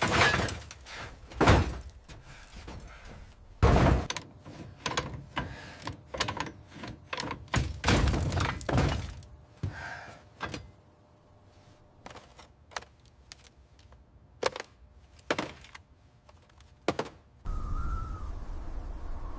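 A run of irregular heavy thuds and knocks, some with a cracking edge, thinning out to a few isolated knocks; near the end a steady low rushing noise starts.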